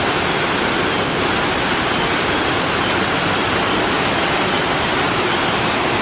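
Water pouring down Hiji Falls: a steady, dense rush of falling water with no breaks.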